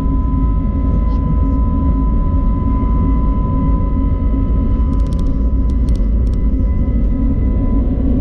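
Steady cabin noise of an Airbus A320neo in flight: a deep engine and airflow rumble with a faint steady whine above it. A few light clicks come about five to six seconds in.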